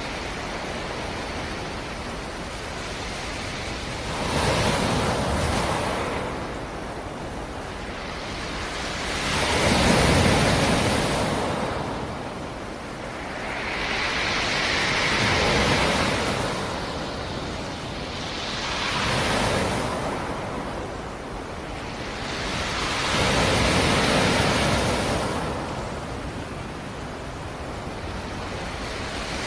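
Sea surf: waves breaking on a rocky shore one after another, a wash of noise that swells and ebbs every four to six seconds, with a light rush of wind.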